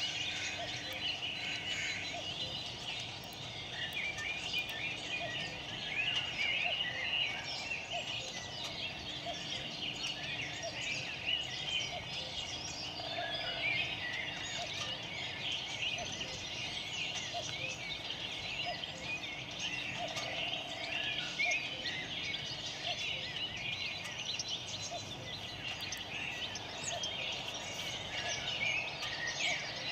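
Birds chirping, many at once, in a continuous dense chorus.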